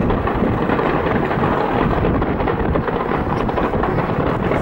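Dense fireworks barrage: many bursts and crackles running together into a steady rumble.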